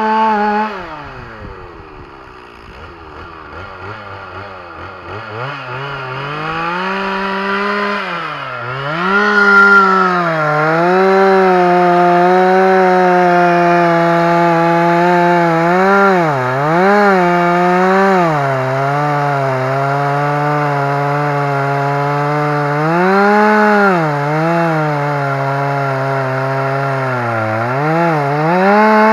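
Two-stroke chainsaw cutting into a big white oak. It drops to a low idle at the start, revs back up to full throttle after about six seconds, then runs at a high steady pitch that sags again and again as the chain loads in the wood.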